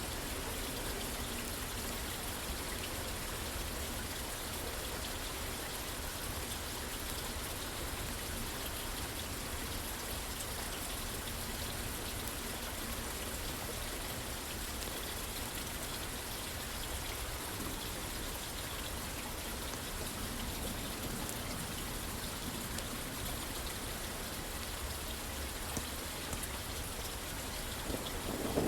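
Steady rain pattering on a roof, an even wash of drops. A low rumble of thunder starts to build right at the very end.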